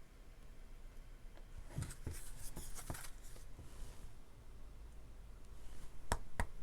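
Oracle cards being handled and shuffled: a burst of soft card rustling and sliding about two seconds in, then a few sharp taps of the cards near the end.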